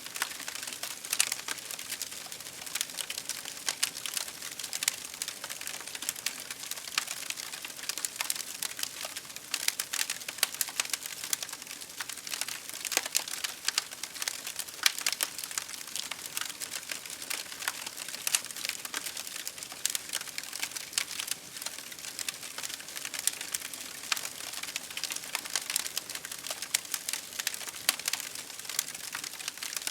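Campfire crackling: a dense, unbroken run of sharp pops and snaps over a steady hiss, with rain falling.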